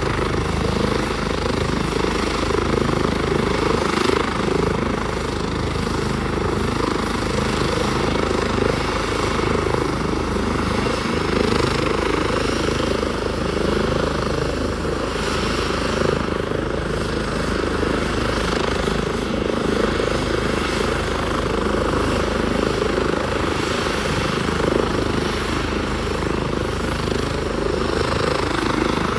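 Helicopter's engine and rotor running steadily, with the sound holding at a constant level throughout.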